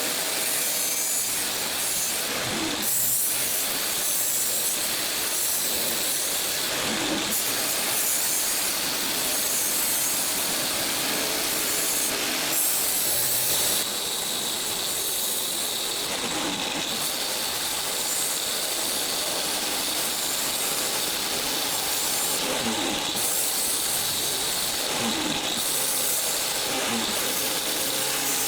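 Continuous abrasive rubbing of a tool working the saw-blade steel, its grit changing briefly every few seconds as the work shifts.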